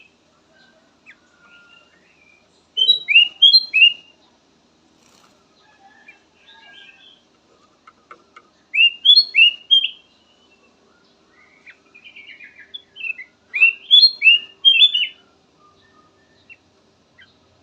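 Kutilang emas bulbul singing: three loud phrases of quick, down-slurred whistled notes about six seconds apart, with softer scattered chirps between them.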